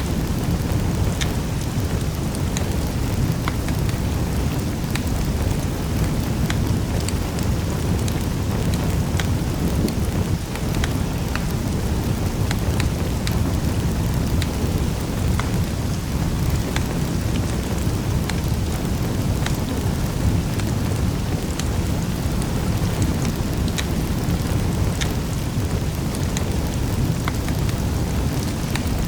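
Fire in a fireplace burning with a steady low rumble, and small sharp crackles and pops scattered irregularly through it.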